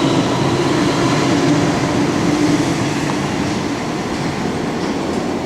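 Sydney electric passenger train running through the station without stopping: a steady rush of wheel and motor noise with a held hum.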